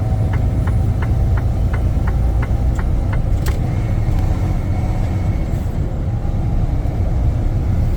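Semi-truck engine and road noise heard from inside the cab while driving on the highway, a steady low rumble. A light ticking, about three ticks a second, runs through the first three seconds.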